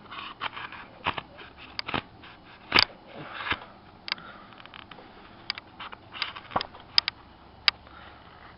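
Freshly sharpened knife blade cutting and shaving wood: irregular sharp cracks and snaps with short scrapes between them, the loudest crack about three seconds in.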